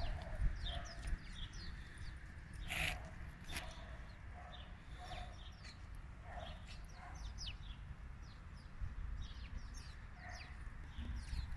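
Small birds chirping: many short, quick falling chirps and some lower calls, scattered irregularly, over a steady low rumble.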